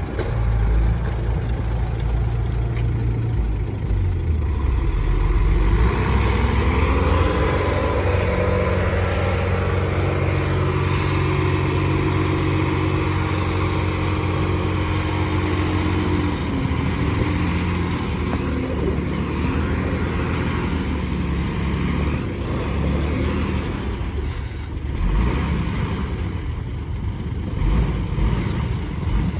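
Heavy diesel engine running, its pitch rising about five seconds in, held high for about ten seconds, then dropping back to a lower steady run. A few knocks near the end.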